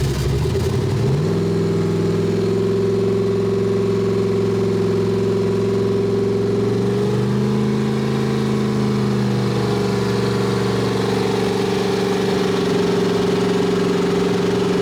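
Pickup truck's engine running while cruising, heard from inside the cab as a steady drone. Its pitch climbs about a second in, swells up briefly around the middle, then settles back.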